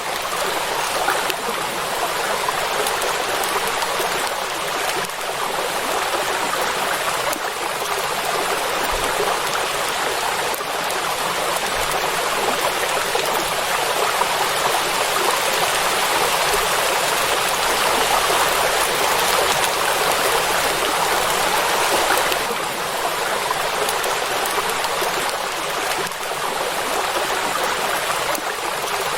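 Heavy rain falling on a lake, a steady even hiss of drops on water with little low end.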